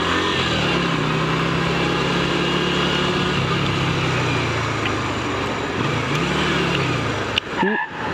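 Motorcycle engine running on the road with wind noise, its pitch easing off and picking up again a couple of times as the throttle changes. About seven and a half seconds in, the sound cuts off abruptly and a brief rising tone is heard before engine and road noise resume.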